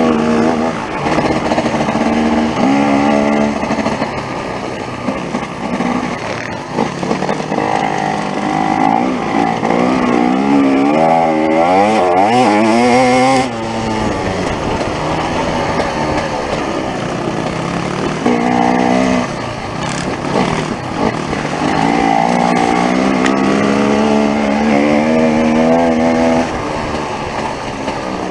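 Off-road motorcycle engine heard close up from on the bike, revving up and down with the throttle over a rough dirt track. The pitch climbs steeply and cuts off sharply about thirteen seconds in, then the engine runs steadier with further rises and falls.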